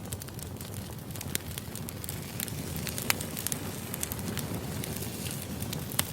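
Wood fire burning: crackling with irregular sharp pops over a steady low rumble of flames, with louder pops about three seconds in and near the end.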